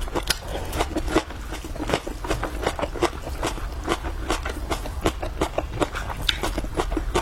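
Close-up chewing with wet mouth smacks, several a second in an uneven rhythm.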